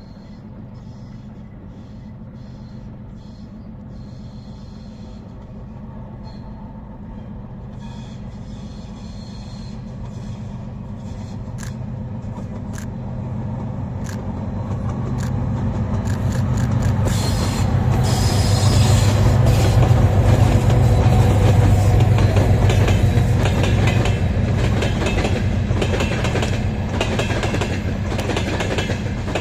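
3TE10M diesel freight locomotive with its two-stroke opposed-piston diesel engines running as it hauls a freight train toward and past the listener. The engine drone grows steadily louder and peaks as the locomotive passes, about two-thirds through. Hopper wagons then roll by with rapid clickety-clack of wheels over rail joints.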